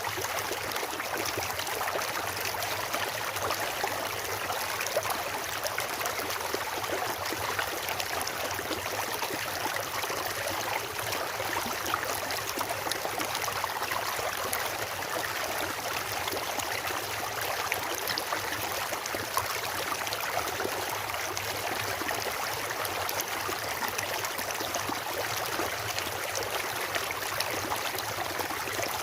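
Steady rushing of a stream or river flowing over rocks, an even wash of water noise.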